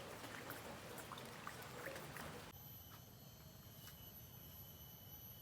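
Faint light rain easing off, with scattered drops ticking. About halfway through it switches abruptly to a quieter forest background with steady high insect tones.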